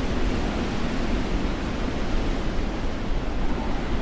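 Strong snowstorm wind blowing: a steady, even rushing noise, heaviest in the low end.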